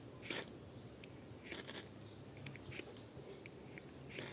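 Ferrocerium rod being struck with the spine of a knife: a series of short, sharp scrapes about a second apart, throwing sparks onto damp tinder that is not catching.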